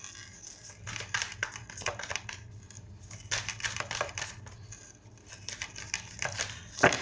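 Tarot cards being handled: irregular rustling and light clicks, with one sharper slap near the end.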